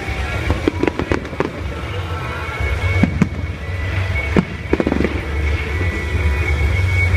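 Aerial firework shells bursting in a series of sharp bangs, some in quick clusters of two or three, over a steady low rumble.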